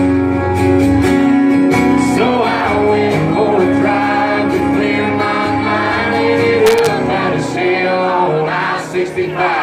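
Live country band playing, with singing over it.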